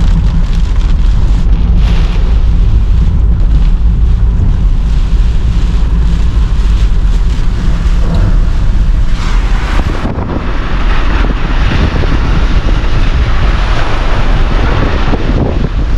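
Car driving through a tropical storm: a steady low rumble of engine and road, with wind buffeting the microphone. About ten seconds in, a louder rushing hiss of wind comes in.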